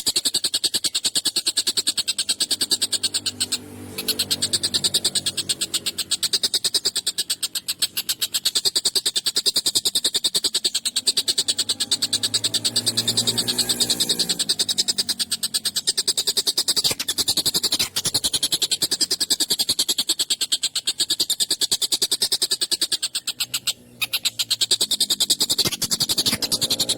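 Tengkek buto kingfisher calling in a fast, harsh, continuous rattling chatter, with lower rasping notes rising through it at times and brief breaks twice.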